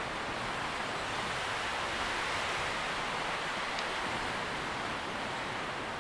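Wind rustling through tree leaves: a steady, even hiss that swells a little about two seconds in, with a faint tick near the middle.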